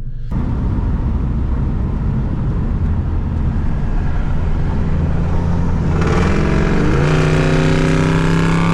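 Turbocharged Ford Mustang engine pulling while driving, over a low road and wind rumble; about six seconds in the engine note climbs as the car accelerates, then holds steady.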